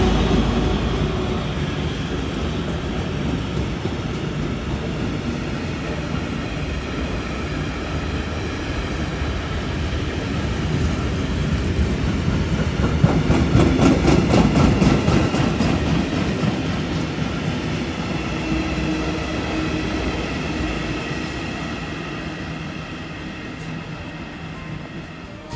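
Train running along the tracks, growing louder to a peak about halfway through with wheels clattering over the rail joints, then fading away.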